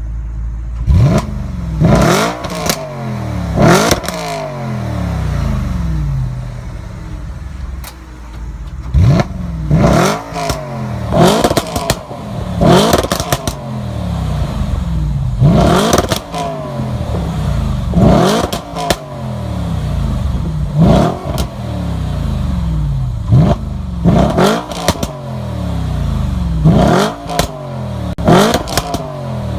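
Audi RS5 engine revved in repeated sharp blips, about fifteen of them, each climbing quickly and falling back toward idle. As the revs drop, the exhaust pops and crackles, the over-run crackle that its ECU tune is set up to produce.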